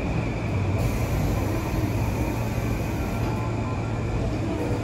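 JNR 185 series electric train standing at the platform with its onboard equipment humming steadily, amid station noise.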